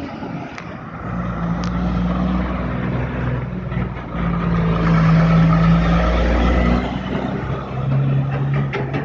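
Heavy truck's diesel engine pulling under load while the truck is driven, its note holding steady pitches that step lower, with brief dips in level about four and seven seconds in.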